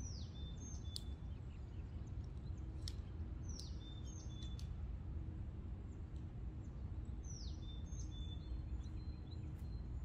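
A songbird calling: a high note sliding downward, then a short level note, repeated three times about every three and a half seconds, with a few sharp high ticks between. It sounds over a steady low background rumble.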